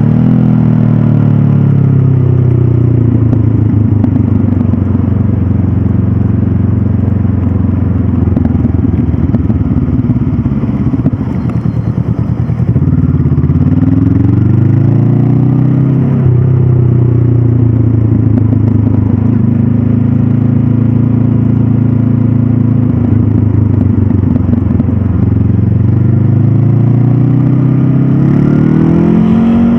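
Honda CB500F's parallel-twin engine through its stock exhaust, heard from the rider's seat under way, with engine speed rising and falling as the throttle opens and closes through gear changes. The revs drop around eleven seconds, climb again with a shift around sixteen seconds, fall away later and pick up near the end.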